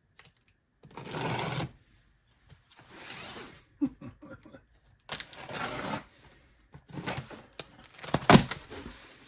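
Unpacking a boxed item: irregular bursts of rustling packaging, with sharp clicks and knocks, the loudest about eight seconds in.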